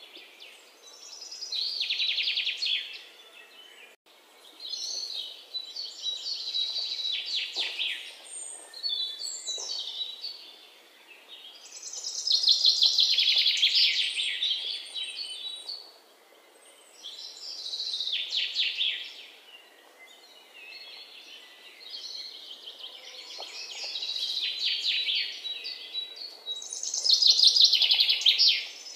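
Birds chirping in repeated bursts of rapid, high-pitched trills every few seconds, over faint background noise.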